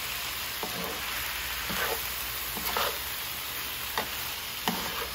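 Chicken pieces and potatoes sizzling in oil and tomato paste in a frying pan while a metal spoon stirs them, with short scrapes and two sharp knocks of the spoon against the pan near the end.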